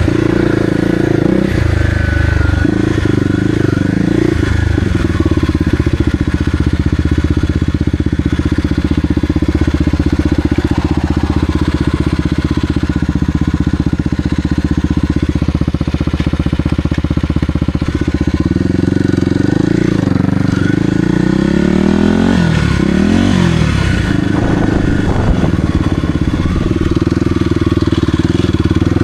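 Kawasaki KLX300R dirt bike's single-cylinder four-stroke engine running under way, steady at first, then rising and falling in pitch several times in the second half as the throttle is opened and closed.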